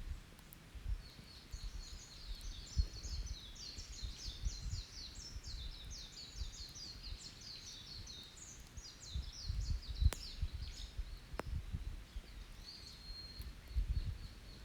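A small songbird sings a long, rapid run of high chirping notes lasting several seconds, then a single high note near the end. Two sharp pops from the campfire about ten and eleven and a half seconds in, over uneven low rumbling.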